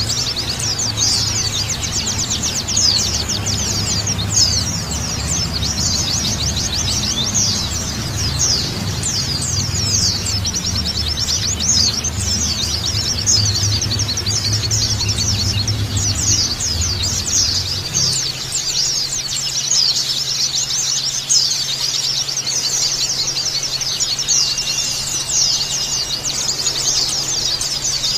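A crowd of white-eyes (pleci) calling together: dense, rapid high chirps and trills overlapping with no gaps. Under them runs a low hum that shifts to a steadier, quieter tone about two-thirds of the way through.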